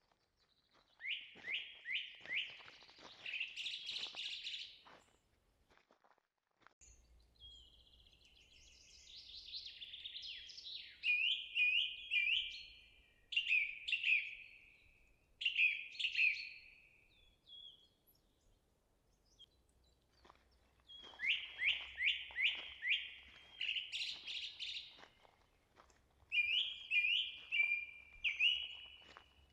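A songbird singing: phrases of quick, falling notes given again and again, with short pauses between phrases.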